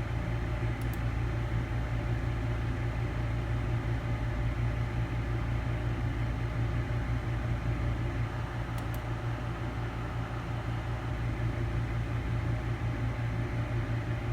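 Steady low hum with a fan-like hiss, unchanging throughout.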